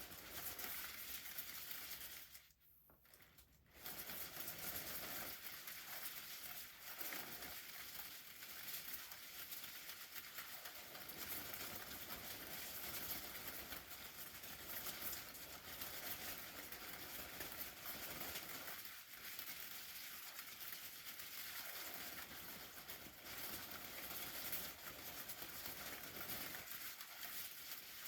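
Umbrella crinkling and rustling steadily, with a brief pause about three seconds in.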